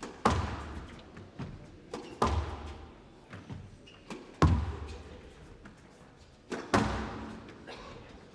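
Squash rally: the ball is struck hard, with four loud cracks about two seconds apart and lighter knocks between them, each echoing briefly in the hall.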